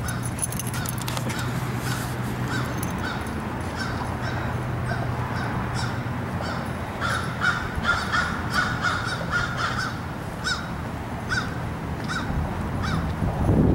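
Birds calling outdoors: a long series of short, harsh calls, about two a second, crowding together in the middle. A steady low hum runs beneath them.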